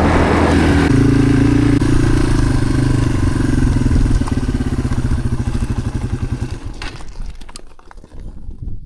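Motorcycle engine running steadily, then its speed drops and the firing slows and fades away from about four seconds in. A few light clicks near the end.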